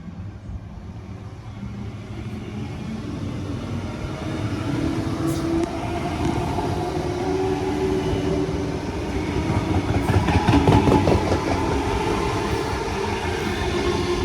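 Sydney Trains Tangara electric multiple unit passing through the station, building up as it approaches, with a steady whine over the rumble. Its wheels click over rail joints, loudest about ten seconds in.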